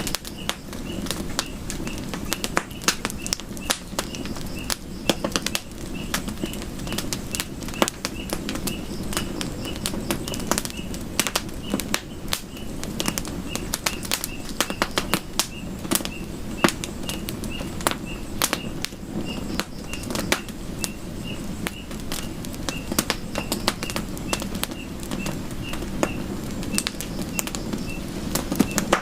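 Campfire crackling, with irregular sharp pops and snaps of burning wood over a steady low rush of flames. A short high chirp repeats about once or twice a second throughout.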